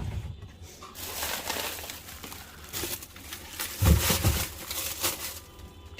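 Rustling and crinkling of packets and containers being handled and packed into a fridge, over a steady low hum, with a heavier thump about four seconds in.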